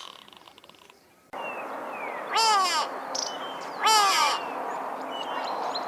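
Grey go-away-bird giving two nasal, downward-sliding calls about a second and a half apart, over a steady hiss of background noise.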